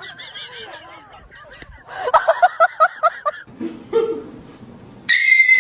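Laughter-like vocal bursts in a quick run, about seven a second for over a second, then a loud high-pitched shriek starting near the end.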